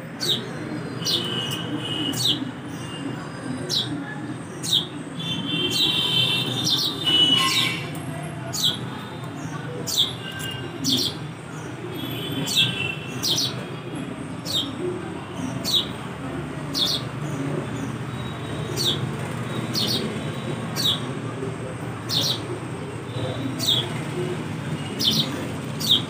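Small bird chirping over and over, short sharp downward chirps about once a second with a quicker flurry about six seconds in, over a steady low background rumble.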